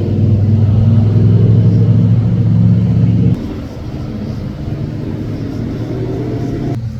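Classic car engines rumbling as the cars drive past; a loud, deep rumble for the first three seconds drops off suddenly, and a quieter engine rumble carries on.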